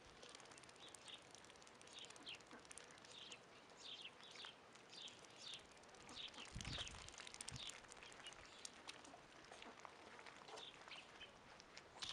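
Faint, rapid, high-pitched bird chirps, several a second, with a couple of low thumps a little past the middle.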